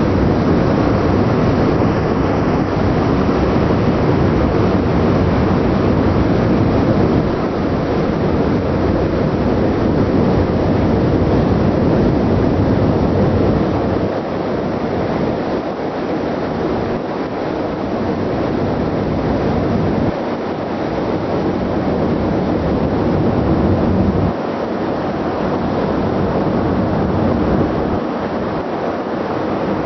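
Steady wind rushing on the microphone mixed with the ship's engine and exhaust noise. The low rumble drops away briefly a few times in the second half.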